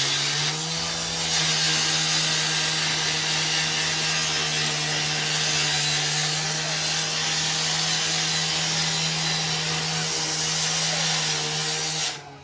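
An engine-driven machine running steadily at high speed with a loud hiss, its pitch wavering slightly; it stops abruptly near the end.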